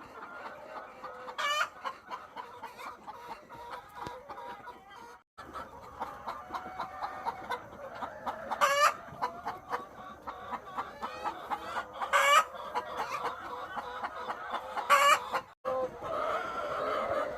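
A flock of egg-laying hens clucking steadily, with four louder, longer calls standing out over the flock.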